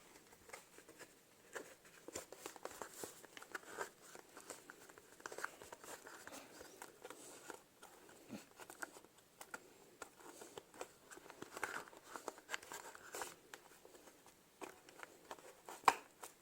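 Faint handling noises of rubber and plastic: soft rubbing, creaking and small clicks as a rubber mounting piece is worked by hand through a hole in a plastic body panel, with a sharper click near the end.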